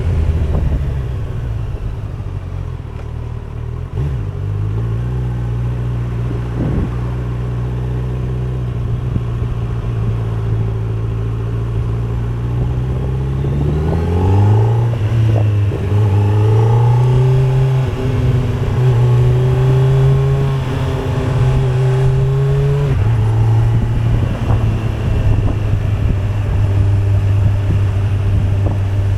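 Kawasaki Z900 (2025) inline-four engine running with a steady note. About halfway through the revs rise and hold higher for several seconds, then drop back near the end.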